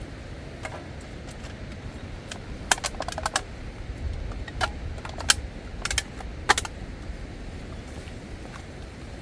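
A series of sharp clicks and light clinks, several in a quick cluster about three seconds in and a few single ones after, over a steady rushing noise.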